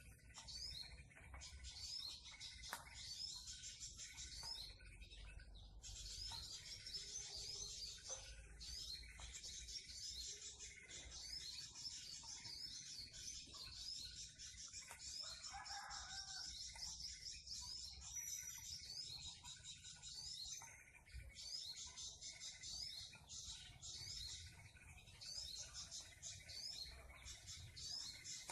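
Faint, rapid, high-pitched bird chirping in long runs broken by short pauses.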